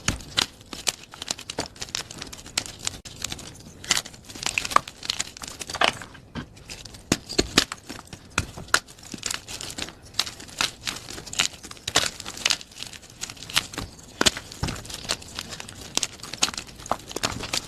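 Plain gym chalk being crushed: a dense, irregular run of sharp crunches and crackles.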